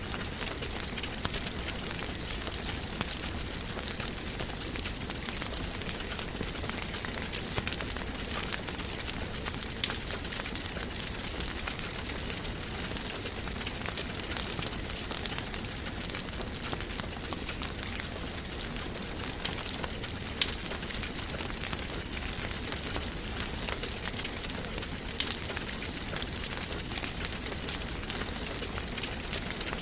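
Wood fire crackling in a fireplace: a steady hiss with frequent sharp pops and snaps, the loudest pop about twenty seconds in.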